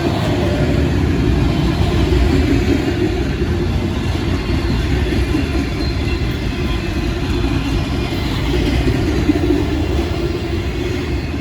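A train passing, its wheels and cars on the rails making a loud, steady rumble that rises abruptly at the start and holds for about eleven seconds.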